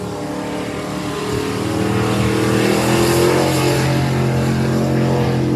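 Rally truck's engine working hard: its pitch and loudness climb over the first couple of seconds as it revs up, then hold high and steady under load.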